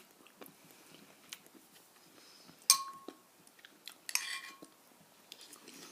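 Light taps and clinks of tableware, with two sharper clinks about three and four seconds in, each ringing briefly.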